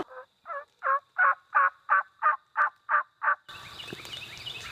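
A series of about ten turkey yelps, evenly spaced at about three a second, the first few building in loudness. They stop sharply about three and a half seconds in.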